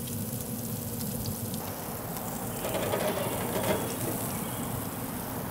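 Salmon burger patties sizzling in oil on a hot cast-iron griddle: a steady frying hiss, with a stretch of louder crackle near the middle.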